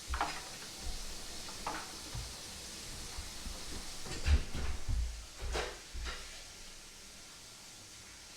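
Quiet kitchen work sounds: a few light clicks and knocks, such as dishes, utensils or a cupboard being handled, over a faint steady hiss.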